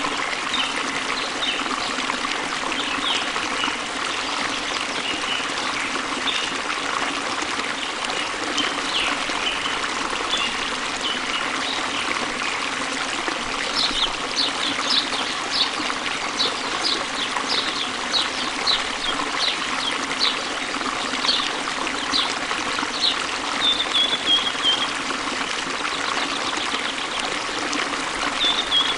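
Water of a stream trickling and flowing steadily, with a bird giving short high chirps over it, a quick repeated run of them from about halfway to near the end.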